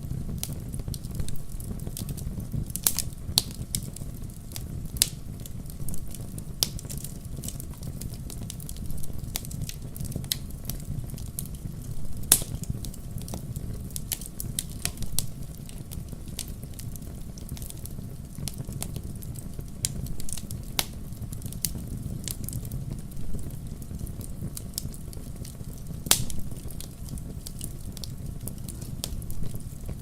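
Wood fire burning in a fireplace: a steady low rumble of flames with irregular sharp crackles and pops, a few standing out louder.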